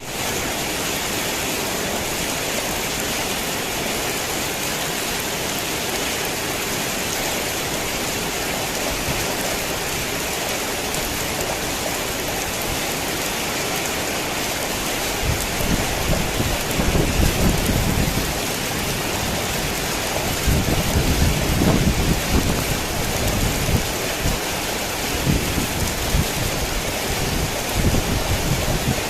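Heavy rain falling in a steady, dense hiss, with deep low rumbles swelling in just past halfway and again a few seconds later.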